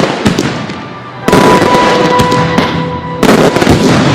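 Fireworks bursting: a loud boom about a second in and another near the end, each followed by dense crackling that slowly dies away.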